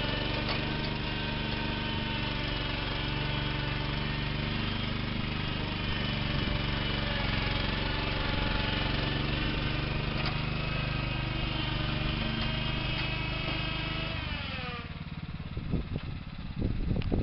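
An engine or motor running steadily at one speed, then slowing with falling pitch and dying away near the end.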